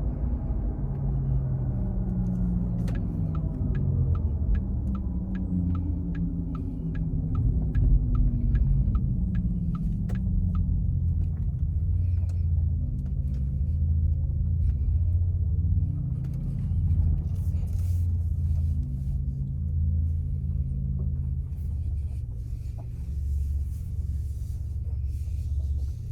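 Road and tyre rumble inside a Porsche Taycan's cabin while driving, with a falling whine in the first few seconds as the car slows. The turn-signal indicator ticks about twice a second from about three seconds in to about ten seconds in.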